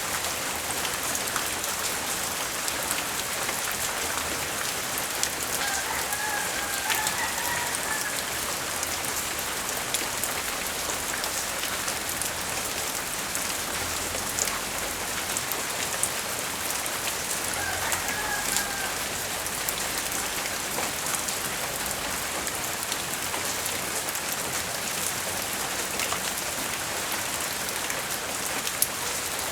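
Steady light rain falling on surfaces during a tropical storm, an even, unbroken hiss of rainfall.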